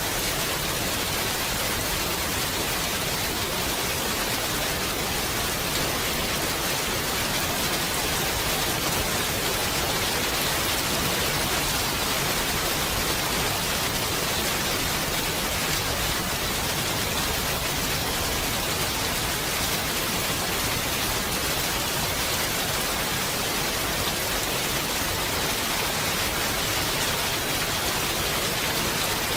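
Steady, even rain falling, a constant hiss without distinct drops or thunder.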